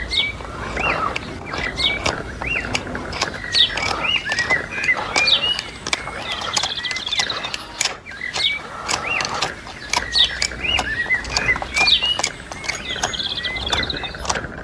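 Small birds chirping over and over in short, quick rising-and-falling calls, mixed with frequent sharp clicks.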